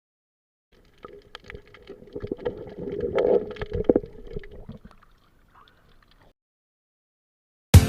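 Water sloshing and gurgling around a small boat, with scattered knocks and clicks, swelling for a few seconds and then fading away.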